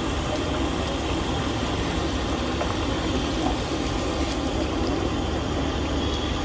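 Steady sizzling of fritters deep-frying in hot oil, under a low rumble of street traffic.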